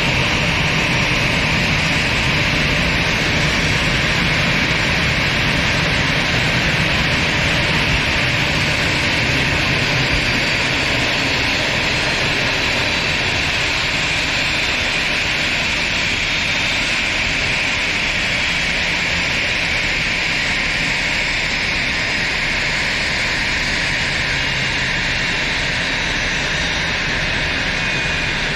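Steady aircraft turbine noise: a loud, even rush with faint high whining tones that drift slowly in pitch.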